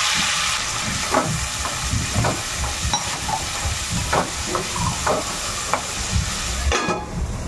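Chopped onions and tomatoes sizzling in hot oil in a kadhai, with a spatula stirring them and scraping and knocking against the pan now and then.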